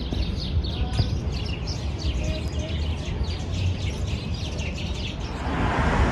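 Small birds chirping in quick, repeated short notes over a low rumble of traffic; about five seconds in, the rising noise of an approaching vehicle comes in.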